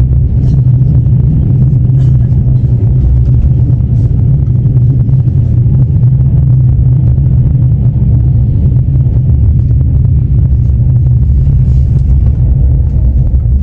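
Steady low rumble of a Russian Railways passenger car in motion, heard from inside the carriage, with a few faint clicks in the first few seconds.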